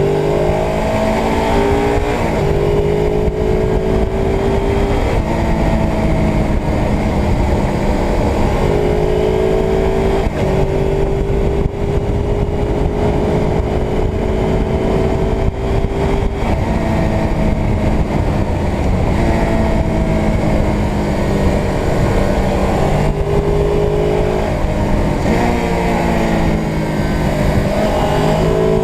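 Suzuki GS500's air-cooled parallel-twin engine pulling under way, its pitch climbing steadily and dropping back sharply at each gear change, several times over, with heavy wind and road rush underneath.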